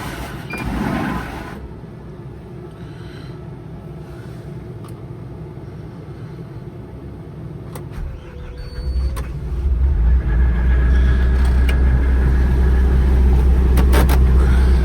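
Tractor engine running, with a steady low rumble that grows much louder about nine to ten seconds in, as if revved or put under load.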